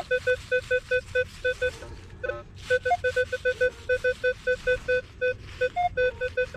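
Minelab Equinox 800 metal detector beeping as its coil is swung: a fast, steady string of short, identical low tones, about five a second. There is a short break about two seconds in, and a few single higher beeps.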